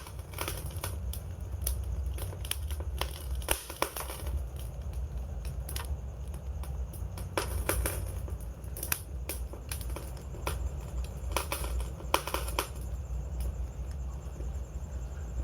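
Wood campfire burning: irregular sharp crackles and pops over a steady low rumble.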